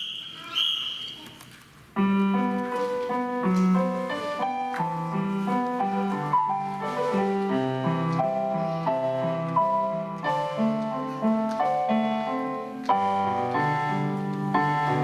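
A high steady whistle-like tone at the very start, then about two seconds in a piano begins playing a melody over a moving bass line.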